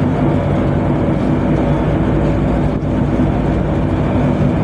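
Steady drone of a tugboat's engine machinery running, a low hum with several steady tones.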